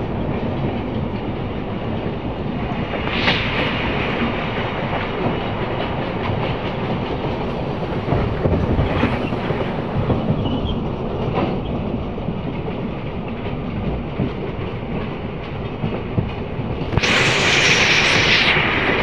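Passenger train running along the track: a steady rumble of wheels on rails with a few clicks from the rail joints. For the last two seconds a louder rushing hiss rises over it.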